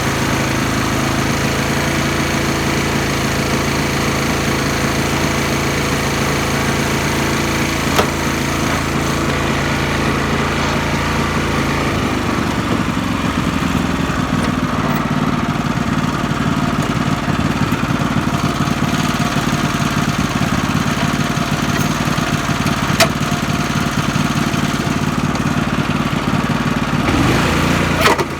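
Garden tractor's small engine running steadily, its note shifting about halfway through, with two sharp clicks along the way.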